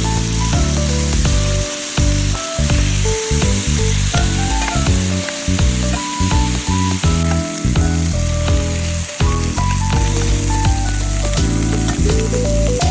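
Marinated chicken pieces searing in hot oil in a pan: a steady, loud sizzle. Background music plays underneath.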